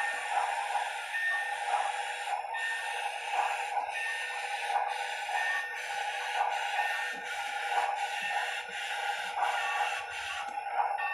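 HO scale steam locomotive's Soundtraxx Tsunami2 DCC sound decoder playing steam-engine sounds through its small speaker: a steady, rhythmic chuffing with short repeated high tones over it.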